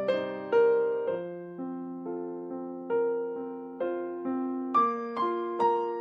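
Background music: electric piano playing slow, gently struck chords, a new chord about every half second, each one fading before the next.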